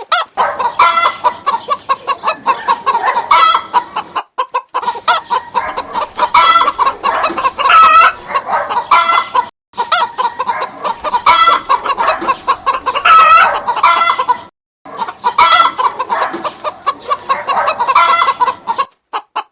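Hens clucking: a rapid, busy run of short calls, broken by a few brief silent gaps.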